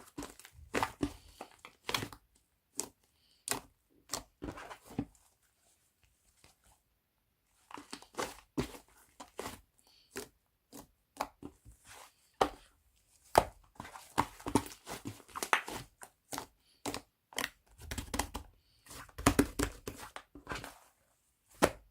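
White slime being squished, stretched and poked by hand, giving quick runs of sticky crackling pops and clicks with a pause about six seconds in.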